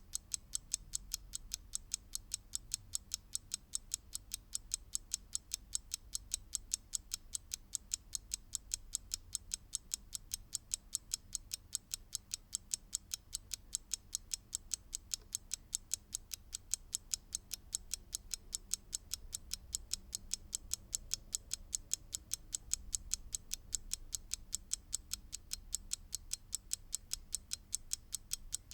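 Mechanical clock ticking: its escapement gives a rapid, perfectly even train of sharp, bright ticks.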